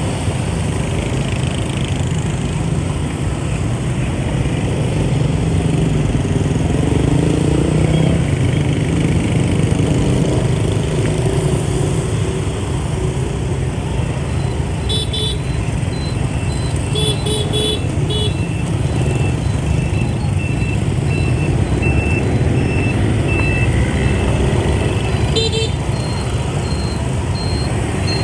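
Dense motorbike traffic with many small engines running in a steady low rumble. Short horn toots come twice near the middle and once more near the end, and a faint high beep repeats through the second half.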